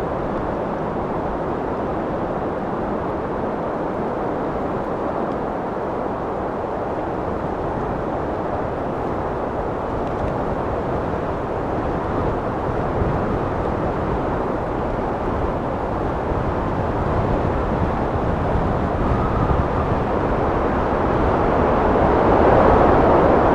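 Wind blowing steadily, a low rushing noise that gusts louder over the last few seconds.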